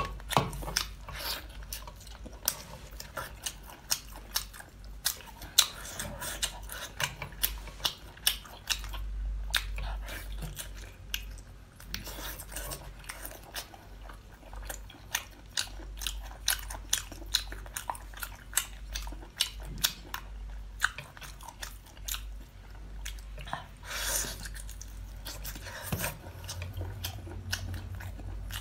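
Close-miked eating of spicy sea snails: wet chewing and smacking with many short, sharp mouth clicks, and a few longer sucking noises.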